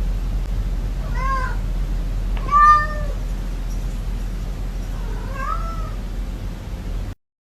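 A domestic cat meowing three times, about one, two and a half, and five and a half seconds in; the middle meow is the loudest. A steady low hum runs underneath, and the sound cuts off suddenly near the end.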